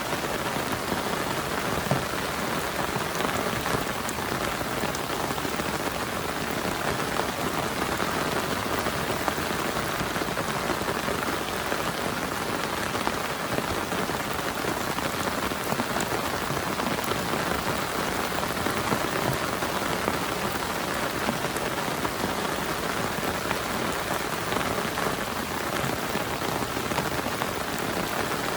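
Heavy rain falling steadily on a camp tarp, an even hiss dotted with many separate drop ticks.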